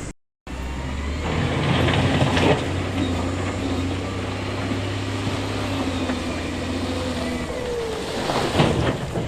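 Heavy diesel earthmoving machinery, a bulldozer or wheel loader, running steadily under load. Brief harsher rasping noise around two seconds in and again near the end, typical of rock being pushed and scraped.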